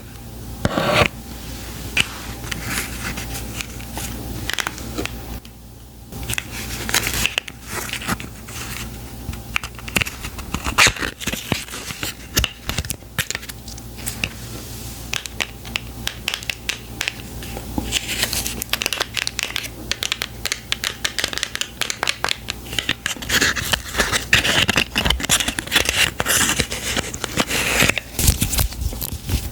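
Close-up handling of beauty product packaging: crinkling, scratching and tearing of wrapping, with many short taps and clicks.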